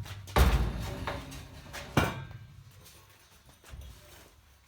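Two sharp knocks, about a second and a half apart, the first the louder, each ringing briefly and fading out.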